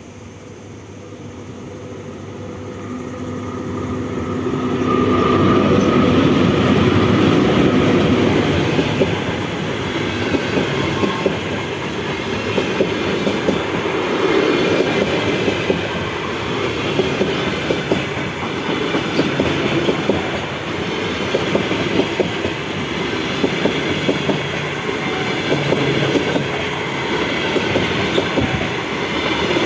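A train approaches and passes close by. Its rumble grows over the first several seconds, then holds steady, with the wheels clattering over rail joints in a regular clickety-clack.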